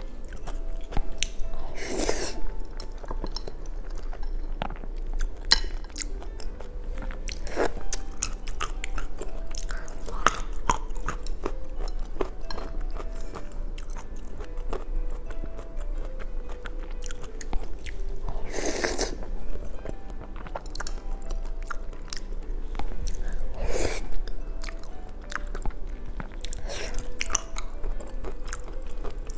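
Close-miked eating sounds of a person biting and chewing cooked brain, with many small wet mouth clicks and a few longer crunching or slurping noises, over soft background music.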